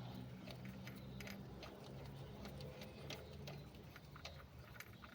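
Faint, irregular light metallic clicks and ticks as the already-loosened bolt of a Pajero Full's engine pulley is worked out by hand and tool, over a steady low hum.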